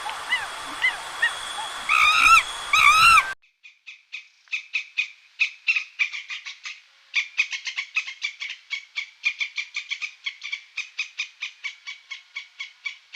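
Animal calls: two loud pitched calls over a background of small chirps, then an abrupt change to a long run of short, rapid calls repeated about three to four times a second.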